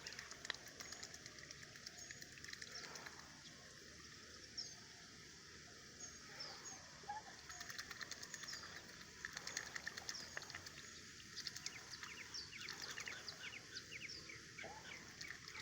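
Faint outdoor birdsong: small birds chirping in short, scattered calls, more often in the second half, with soft scattered clicks.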